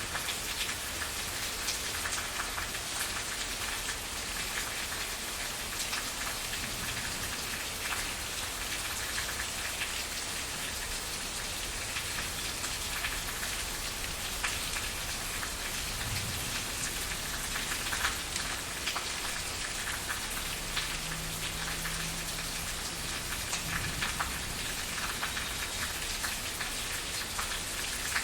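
Steady rain falling on a surface, with the close patter of individual raindrops.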